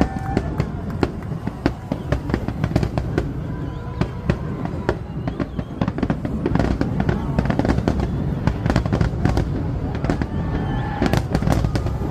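Rapid, irregular pops and crackles over a steady low rumble, with faint voices in the mix.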